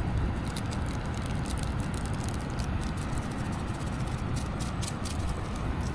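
Campfire crackling with many small sharp snaps over a steady low rumble.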